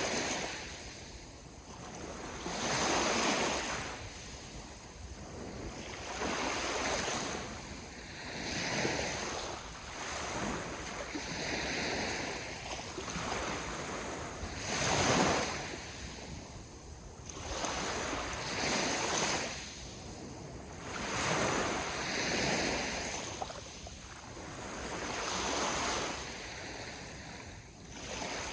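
Ocean waves breaking and washing on the shore, the surf swelling and ebbing about every two to four seconds, with one louder surge about halfway through.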